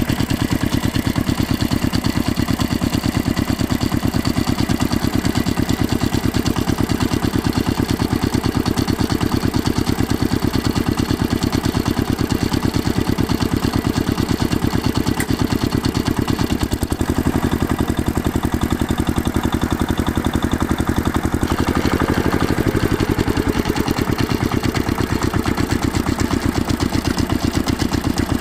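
Diesel engine of a JCB 5CX backhoe loader running steadily with an even knocking pulse. Its note shifts briefly about two-thirds of the way through.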